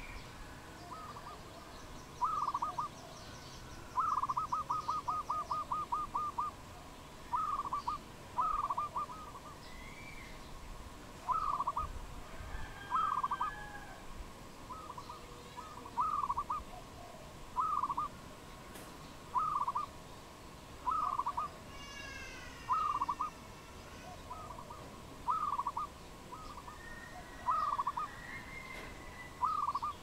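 A bird repeating a short hooting note about every one and a half seconds, with a quick run of about ten notes a few seconds in. Other small birds chirp faintly in the background.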